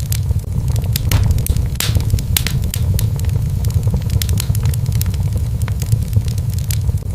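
Wood fire in a fireplace crackling, with frequent sharp pops and snaps over a steady low rumble of the burning flames.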